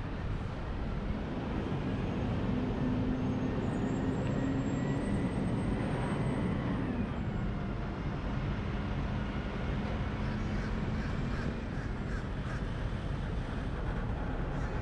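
Wind and road noise on a roof-mounted camera of a moving pickup truck, with a low engine note that drops slightly in pitch about seven seconds in.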